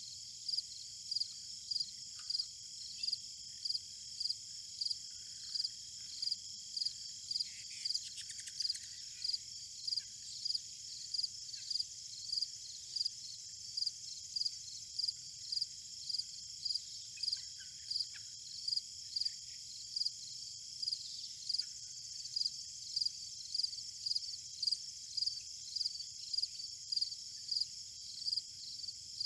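Insects in a field: a steady high-pitched trill with a rhythmic chirp repeating about twice a second over it.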